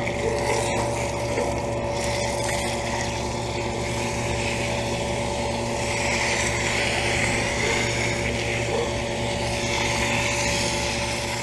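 York central air conditioner's outdoor condensing unit running: a steady compressor hum with the whoosh of its condenser fan.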